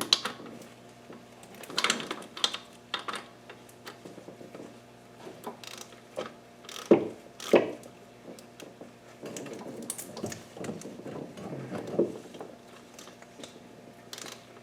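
Scattered clinks and knocks of hand tools and metal parts being handled during work in an engine bay, with short quiet stretches between them.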